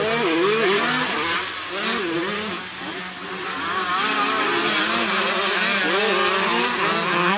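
Several 125cc motocross bikes racing, their engines revving, pitch rising and falling as they go through the gears, easing off briefly around three seconds in.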